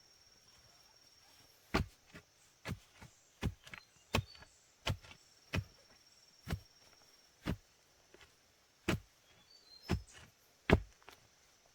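A series of about a dozen sharp strikes, irregularly spaced roughly half a second to a second apart, starting about two seconds in.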